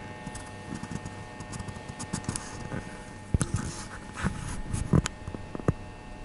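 Scattered clicks, taps and short rustles of something being handled, loudest a little past halfway, over a steady low hum with faint high tones.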